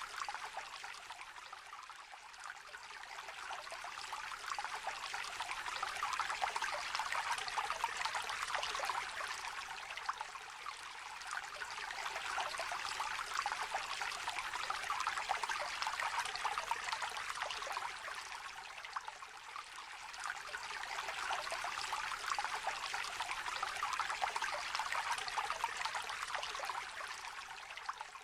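Small river trickling and babbling over stones, a steady shallow-water sound that swells and eases slowly every several seconds.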